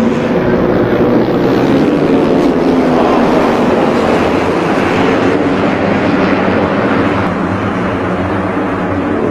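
MotoGP racing motorcycle engines at high revs, their pitch rising and falling as the bikes run on track.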